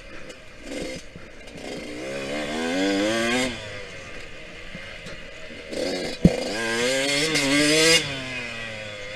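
Yamaha YZ125X 125cc two-stroke dirt bike engine being ridden hard, its revs climbing about two seconds in, easing off, then climbing again after a single sharp knock about six seconds in.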